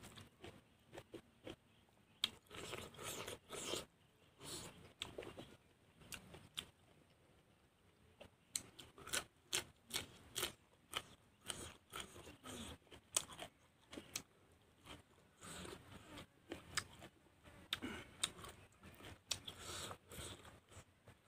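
Close-miked chewing and biting of a man eating rice and boiled vegetables by hand, with irregular crisp clicks and crunches from his mouth.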